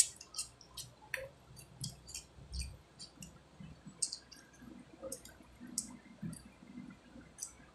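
Close-up chewing of raw cucumber: irregular crisp, wet clicks, with the sharpest one right at the start.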